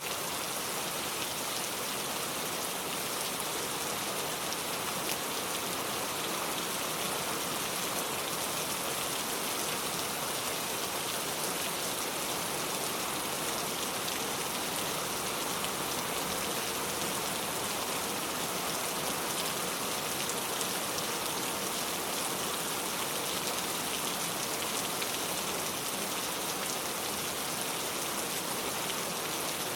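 Steady rain falling, an even hiss of many drops with faint fine patter throughout.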